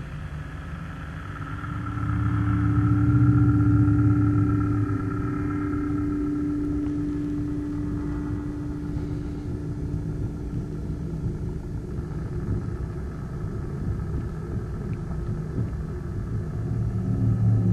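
Low, continuous rumbling with a steady hum over it, swelling about two seconds in, easing off, and rising again near the end.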